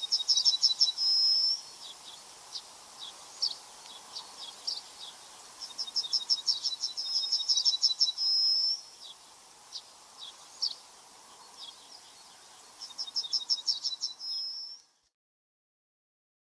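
A songbird repeating a short high song three times, each a fast trill of notes ending in a held whistle, with scattered single chirps between, over a faint background hiss. The sound cuts off abruptly near the end.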